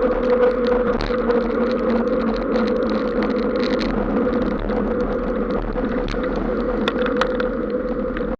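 Tyres rolling along a wet road, with a steady droning hum and a scatter of small crackles from the wet surface.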